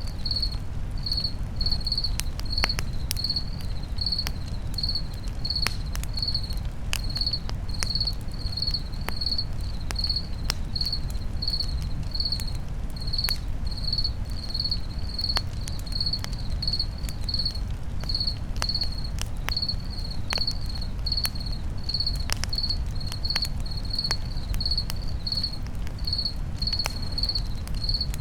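Crickets chirping in a steady high-pitched rhythm, about two chirps a second, over a crackling campfire with sharp scattered pops and a low steady rumble.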